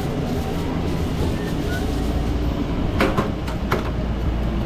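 Steady low machinery rumble of a working food truck kitchen, with two sharp metal clanks about three seconds in, under a second apart.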